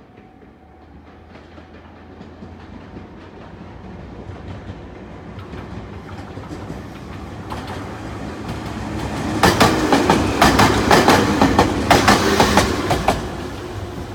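Hokuriku Railroad Asanogawa Line electric train pulling out and picking up speed, its low motor hum growing louder. About nine seconds in, the wheels clack loudly and rapidly over rail joints, then fade near the end.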